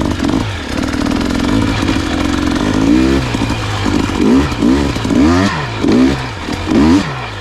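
Dirt bike engine climbing a technical rock line, running steadily at first, then in a quick series of throttle blips, each rev rising and falling, from about three seconds in.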